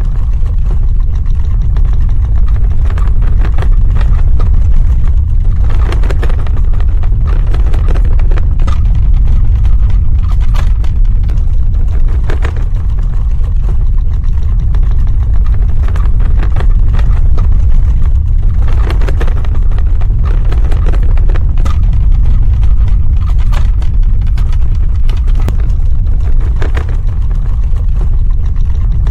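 Earthquake sound effect: a loud, continuous deep rumble with irregular crackling and rattling over it.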